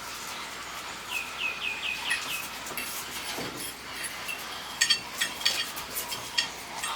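A bird calling a quick run of about six short chirps, followed a few seconds later by a cluster of sharp clicks.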